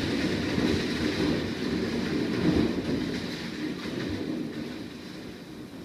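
Heavy downpour pouring down as a steady, rumbling rush of noise that fades a little toward the end.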